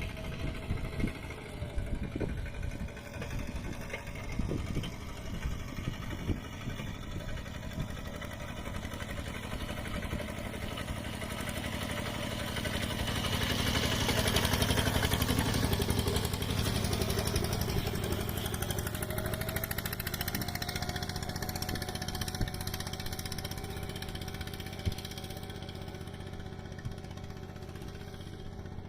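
Kubota mini tractor's single-cylinder diesel engine running steadily under load while plowing mud. Irregular knocks come in the first few seconds, and the engine grows louder around the middle, then eases back.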